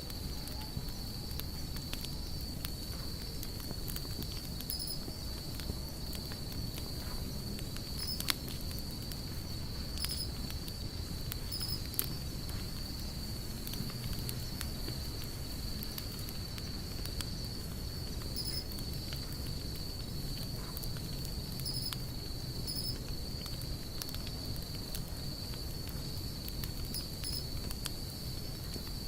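Wood campfire crackling with scattered sharp pops, two of them louder about a third of the way in, over a low steady rumble of the flames. A continuous high insect trill, like crickets, runs throughout with small chirps now and then.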